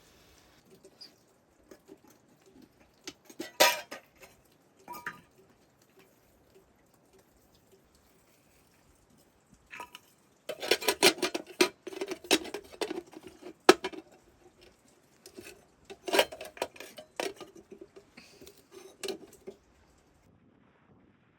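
Metal pots, dishes and utensils clattering and clinking in irregular bursts, with a long run of clatter around the middle. A pot or bowl rings briefly after the knocks.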